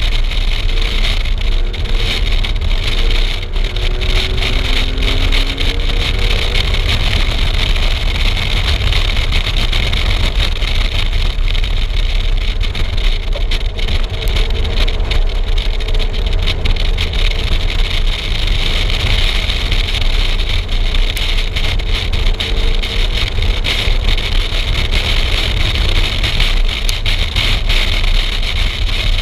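A car's engine running hard at track speed, its pitch rising and falling with throttle and gear changes, under heavy wind noise buffeting the outside-mounted camera microphone.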